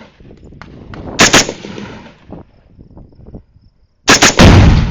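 Rifle shots: two in quick succession about a second in, ringing out with an echo. Near the end another quick run of shots is followed by a loud, deep boom, the Tannerite charge in the dishwasher detonating.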